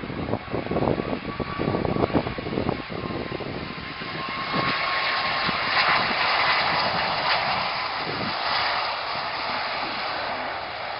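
Airliner engine noise: a steady rushing that swells about four seconds in and holds, with low buffeting gusts of wind on the microphone in the first few seconds.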